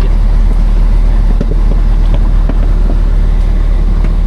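Heavy truck engine running steadily, a loud low drone.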